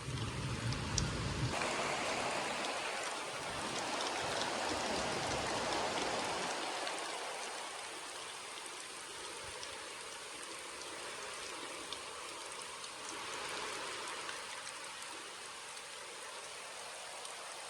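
Rain falling steadily, with scattered drops ticking, heavier for the first six seconds or so and then easing to a softer, even patter. A low rumble sits under the first second and a half.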